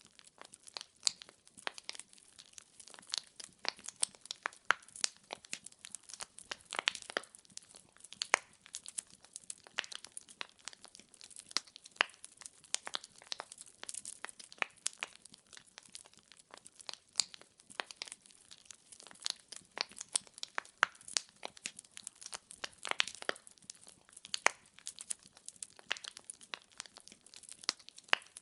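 Wood fire crackling: a steady stream of irregular sharp pops and snaps from burning logs over a faint hiss.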